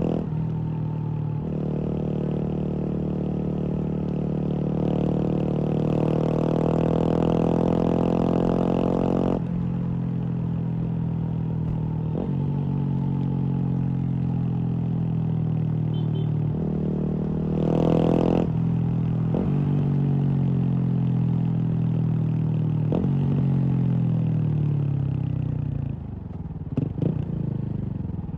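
Kawasaki KLX230's single-cylinder engine running through a Norifumi full-system aftermarket exhaust as the bike is ridden. The engine note jumps in pitch at several points, as with gear changes, and falls away for a few seconds near the end as the bike slows, followed by a few sharp clicks.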